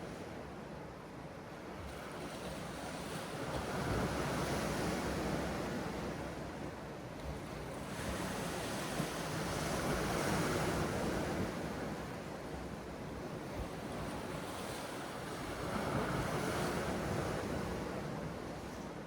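Sea waves washing onto the shore, swelling and ebbing about every six seconds, with wind.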